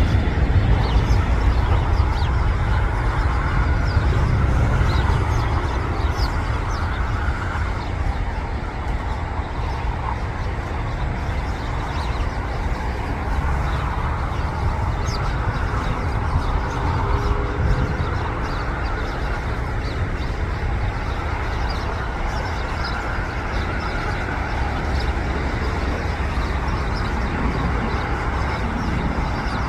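Boeing 747's four jet engines at takeoff power as the airliner climbs away: a deep, steady rumble that fades over the first several seconds, then holds.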